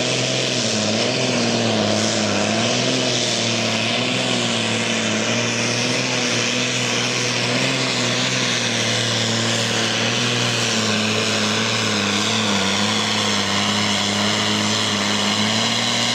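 Tractor-pulling tractor's diesel engine running flat out at high revs, a loud steady drone whose pitch wavers slightly.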